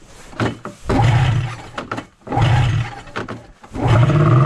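Old Yamaha snowmobile engine being pull-started: two short bursts of engine noise as it fires on pulls of the recoil cord, then it catches near the end and keeps running steadily.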